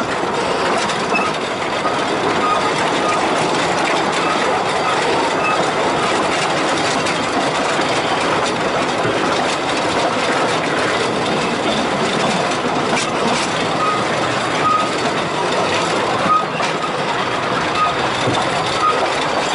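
A Talyllyn Railway narrow-gauge train running on the line, its coaches giving a steady rumble and rattle on the rails. Short, faint high squeaks come now and then.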